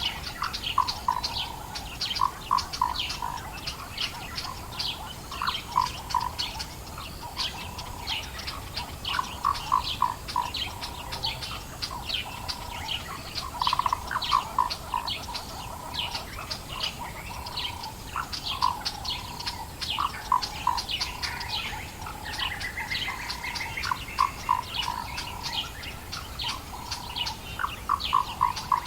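Dawn chorus of many birds in the African bush, a dense mix of short high chirps, with quick runs of lower repeated notes every few seconds and a rising trill about 22 seconds in.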